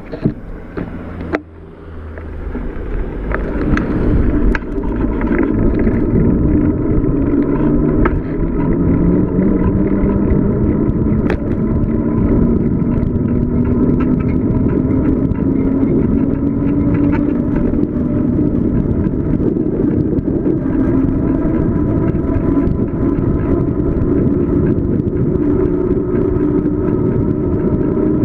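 Bicycle coasting downhill: wind rush and tyre noise build over the first few seconds, then hold steady. A whine slowly rises in pitch as the speed picks up.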